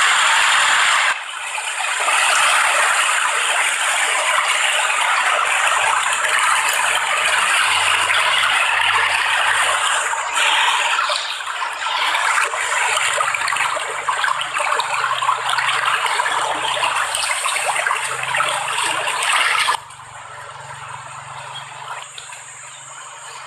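Rushing water, loud and steady, which falls abruptly to a quieter level about twenty seconds in.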